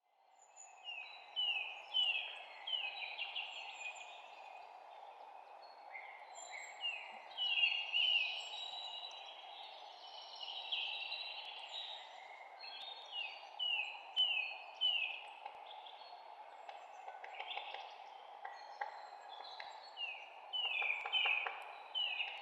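Songbirds chirping in quick series of short, downslurred notes, over a steady background hiss of environmental noise. The sound fades in from silence at the very start.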